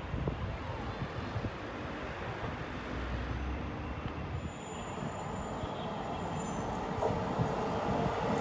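Taiwan Railways train drawing near, its rumble growing steadily louder, with high wheel squeal joining about halfway through.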